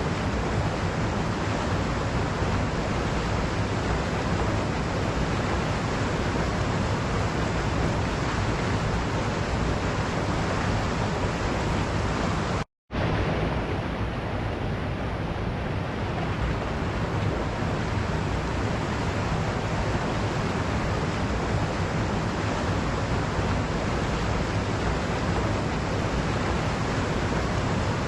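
Waterfall water rushing in a steady, even roar. It cuts out completely for a split second about halfway through, then resumes.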